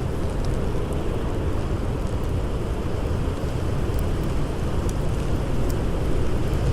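Blizzard wind blowing steadily as a dense low rush, with a few faint, sharp crackles of a campfire scattered through it.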